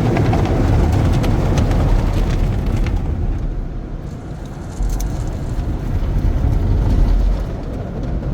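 Automatic car wash heard from inside the car's cabin: water spray and suds hiss and patter against the car's body over a low machinery rumble. About three seconds in the spraying eases and the low rumble dominates, getting louder near five seconds.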